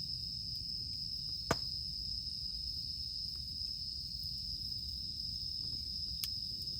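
Campfire burning with a sharp crackling pop about a second and a half in and a smaller pop near the end, over a steady high drone of cicadas.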